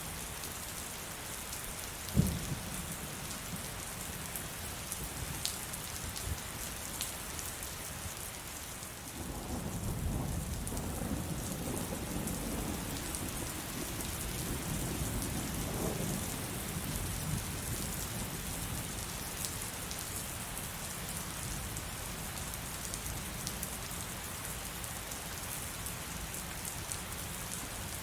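Heavy rain falling steadily. A single sharp thump sounds about two seconds in, and about a third of the way through a long low roll of thunder swells and fades away by about two-thirds of the way.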